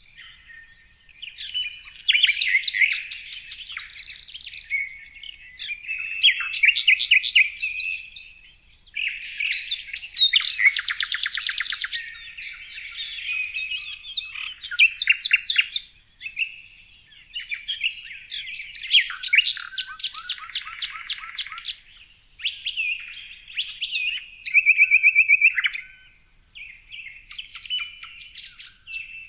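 Songbird song: a series of rapid trilled and chattering phrases, each a second or two long, with short gaps between them.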